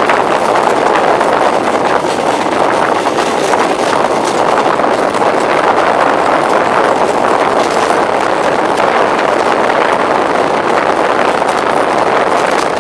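Passenger express train running along the track, heard from an open coach door: a steady loud rush of wheel-on-rail rumble and passing air, with faint scattered clicks.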